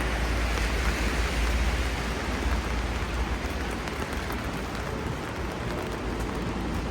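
Steady rain falling on a street, an even hiss with a constant low rumble underneath.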